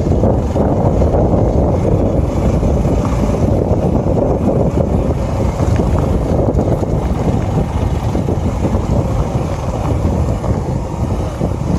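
Wind buffeting the microphone of a moving motorcycle, a steady low rumble of rushing air with the bike's running noise mixed in.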